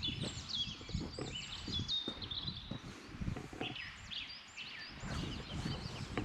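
Songbirds singing in woodland, a run of quick chirps and whistled notes, over the low, irregular thuds of footsteps on the trail.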